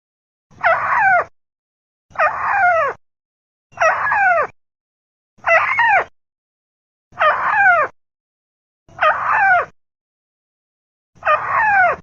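Repeated bird-lure recording of a burung tikusan (a small rail) calling: seven identical calls, one about every second and a half, each a quick run of slurred notes falling in pitch, with silence between.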